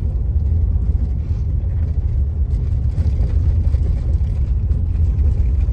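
Steady low road rumble of a moving car heard from inside the cabin: engine and tyre noise.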